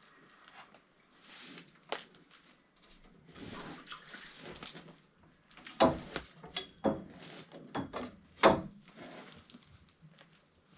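Work on copper plumbing: short bursts of hissing with water dripping, then a series of sharp knocks and metallic clinks as pipe and fittings are handled, loudest about six and eight and a half seconds in.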